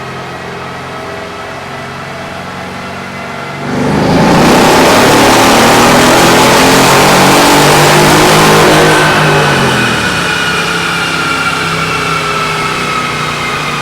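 Mercedes E63 AMG S wagon's twin-turbo V8 making a wide-open-throttle dyno pull: it runs steadily for a few seconds, then about four seconds in jumps to a loud full-power run with the pitch climbing, and lifts off near nine seconds, the engine note falling away as the rollers spin down.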